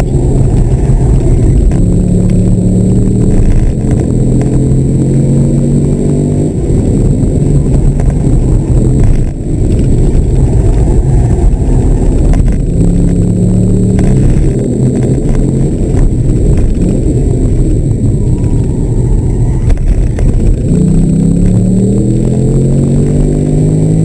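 C6 Corvette Grand Sport's 6.2-litre V8 at race pace, heard from inside the cabin: the revs climb again and again as it accelerates out of corners and fall away as it slows into them, with a brief lift about nine seconds in.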